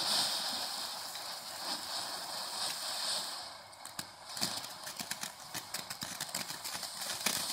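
Small consumer ground fountain firework (TNT Pyro Fan) spraying sparks: a steady high hiss, joined by many sharp crackles from about halfway through.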